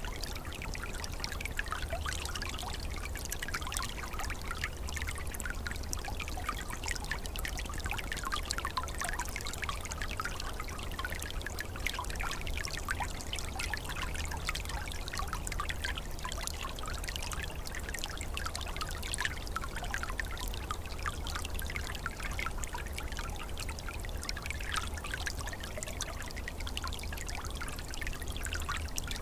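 A small, calm forest stream trickling and gurgling steadily over its bed, with a continuous patter of small water splashes. Beneath it runs a steady low rumble.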